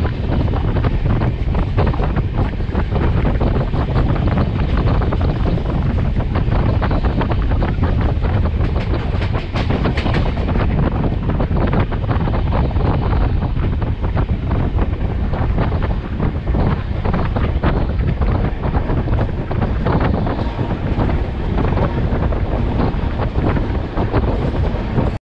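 Durg Humsafar Express passenger train running along the track, heard from aboard: its wheels clatter over the rail joints amid a steady rumble, with wind buffeting the microphone.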